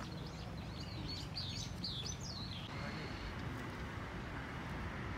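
Small birds chirping in quick, rising and falling calls for about two and a half seconds. The calls then stop abruptly and give way to steady outdoor background noise with a low rumble.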